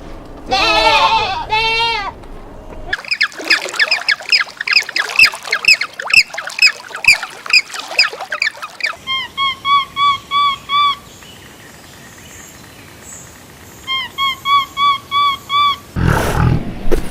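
A string of different animal calls: a wavering bleat at the start, then a fast run of short high calls, then two bouts of short, evenly spaced pitched calls, about three a second, and a brief rough burst near the end.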